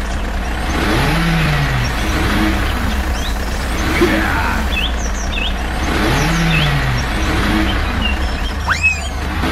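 Tractor engine sound effect: a steady low rumble with a pitch that rises and falls about every five seconds, laid over birds chirping.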